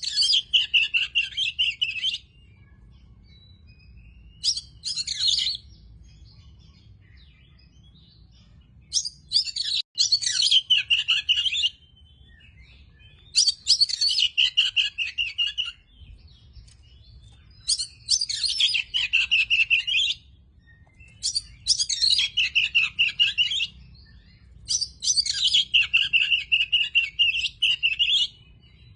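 Oriental magpie-robin singing: about seven phrases of quick repeated notes, each a second or two long, with short pauses between them.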